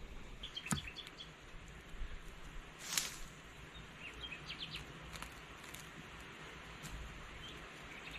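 Outdoor ambience with a steady hiss and short, faint bird chirps in two brief clusters. A few scattered clicks and knocks are heard, and there is one louder short noise about three seconds in.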